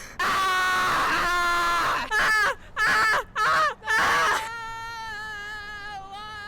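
Goat bleating: one long bleat, then four short ones in quick succession, then a longer, quieter, wavering bleat.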